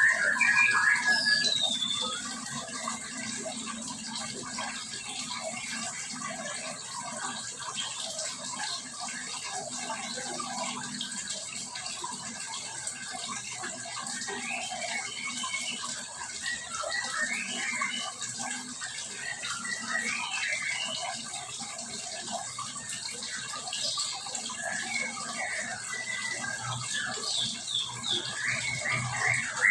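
A colony of small aviary birds chirping and calling together in many overlapping short notes and trills, busiest in the first two seconds and again near the end, over a steady rushing hiss.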